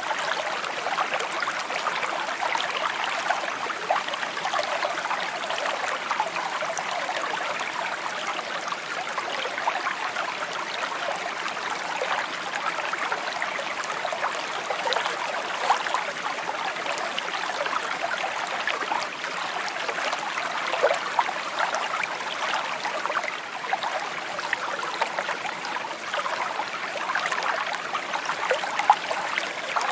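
Shallow stream babbling and trickling over stones: a steady bright burble dotted with small splashes and gurgles.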